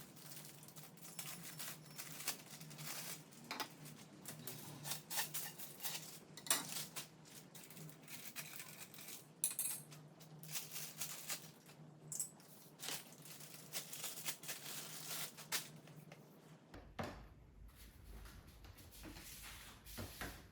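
Hands handling small hard objects: a run of irregular clicks, taps and clinks over a faint steady hum, which drops away about 17 seconds in.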